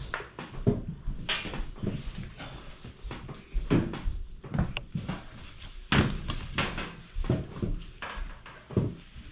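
Irregular knocks and heavy thuds of a Whirlpool front-load washing machine being tipped and set back upright on its levelling feet, the loudest thumps about four and six seconds in.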